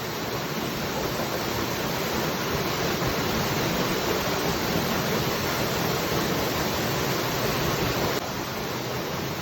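Waterfall: a steady rush of falling water, dropping slightly in level about eight seconds in.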